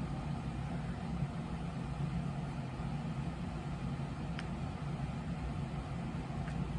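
A steady low hum of a running motor, with a faint click about four seconds in.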